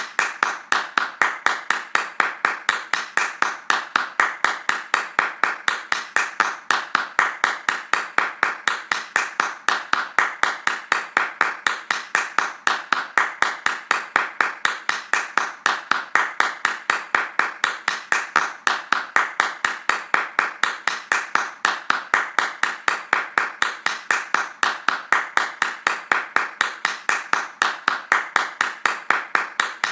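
One person's hands clapping fast and evenly, several sharp claps a second in an unbroken steady rhythm.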